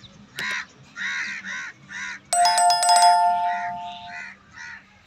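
Crows cawing over and over, about two caws a second. About two seconds in, a loud bell-like chime cuts in and rings out over the next two seconds; it is the loudest sound.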